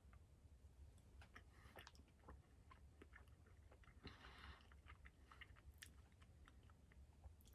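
Faint chewing of a soft fig bar: quiet scattered mouth clicks and smacks, with a brief soft rustle about four seconds in.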